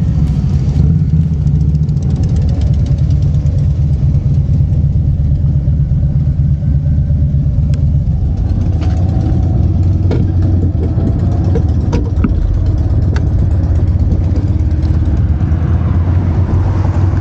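Harley-Davidson Street Glide's V-twin engine running steadily at low revs, its pitch shifting slightly about halfway through.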